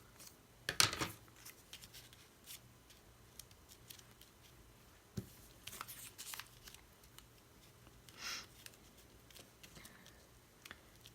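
Paper scraps being handled on a work table: scattered soft rustles and scrapes, the loudest about a second in.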